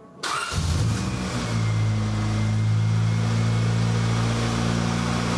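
Freshly swapped-in Honda B18C6 engine in a 1993 Civic starting up: it fires about a quarter of a second in, catches almost at once and settles within a second or so into a steady idle.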